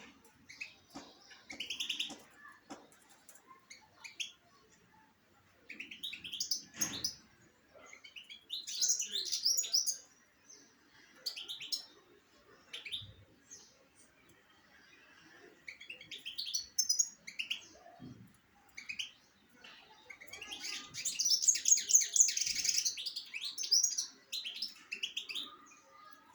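Small birds chirping and twittering in irregular bursts of short high chirps, with a dense, loudest run of rapid chirps near the end. A few dull low knocks are heard in between.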